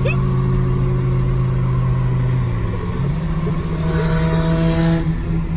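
Car engine running steadily; about three seconds in its pitch steps up as the revs rise.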